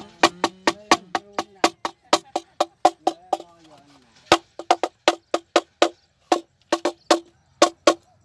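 Rapid, regular hollow wooden knocking, about five knocks a second with a short ringing tail, from a bird-scaring clapper being struck to drive munias off the crop. The knocking pauses briefly twice.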